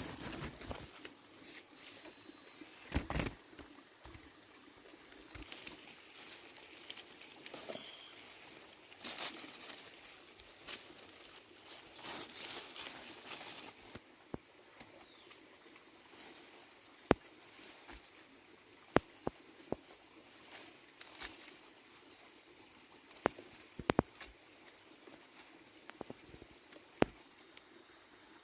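Insects chirping in rapid high pulses over a steady high whine, with rustling in the first half and a handful of sharp, separate clicks or taps in the second half.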